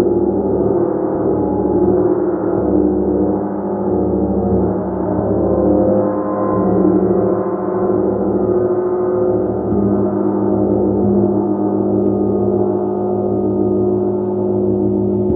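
A gong played continuously: a sustained wash of many overlapping low tones that swells and ebbs gently without sharp strikes.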